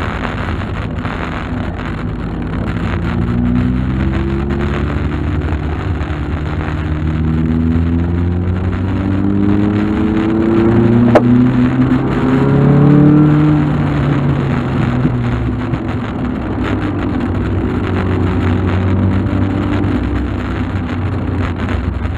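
Volkswagen Golf Mk2 driving, with engine and road rumble. The engine note rises several times as the car pulls up through the gears, then settles into a steadier drone. There is one sharp click about 11 seconds in.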